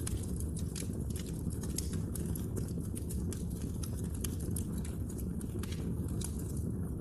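Wood fire burning, with a steady low rumble of the flames and frequent irregular sharp crackles and pops from the burning logs.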